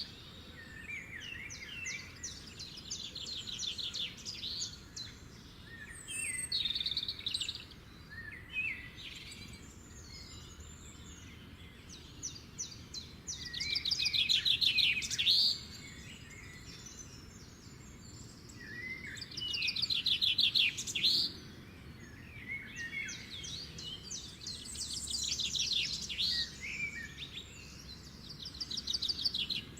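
Songbirds singing and calling, several voices overlapping: fast trills and short chirps, over a faint steady background hiss.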